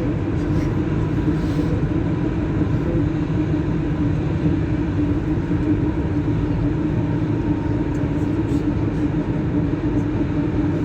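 Rubber-tyred Lyon metro line B train running between stations, heard from inside the car: a steady rumble with a constant low hum.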